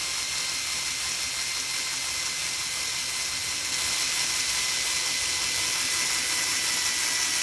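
Steady hiss with no rhythm, strongest in the upper range.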